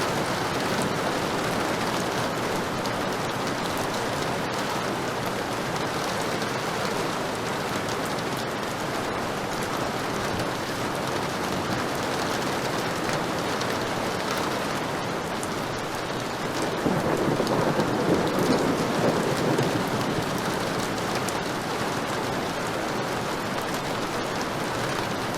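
Heavy rain falling steadily. A rumble of thunder swells up about two-thirds of the way through and fades again after a few seconds.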